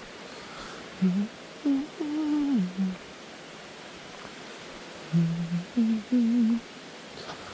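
A person humming a tune in short phrases, with pauses between them, over a steady background hiss.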